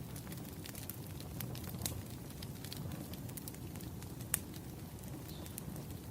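Wood fire crackling: irregular sharp pops and snaps over a low, steady rumble of the flames, with one louder pop about four seconds in.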